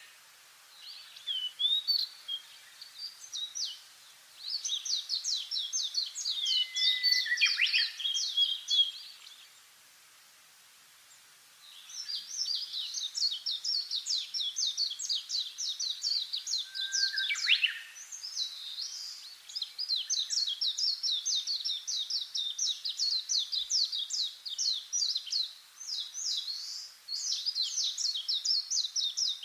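Songbird singing long, rapid, chattering songs of fast-repeated high notes with a few downward-sliding notes, pausing briefly about ten seconds in before singing on almost without a break.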